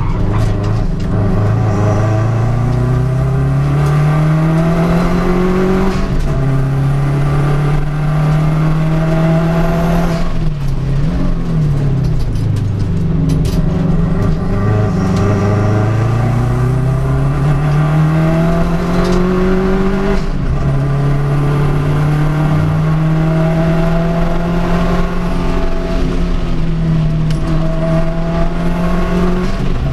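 Race car engines at full throttle, the pitch climbing in long sweeps of several seconds and then dropping as the driver lifts. Around the middle, two engines overlap with their pitches crossing.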